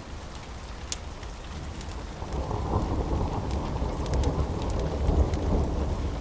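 Steady rain with a low rolling rumble of thunder that swells about halfway through, and scattered sharp crackles over it.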